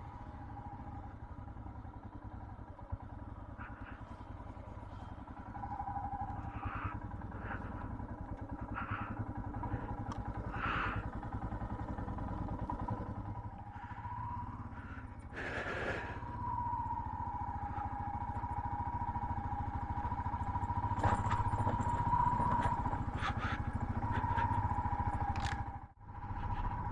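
Motorcycle engine running while the bike rides over a broken, potholed mountain road, its note wavering up and down, with scattered clatter and knocks. There is one louder bang about halfway through, and the sound drops out briefly near the end.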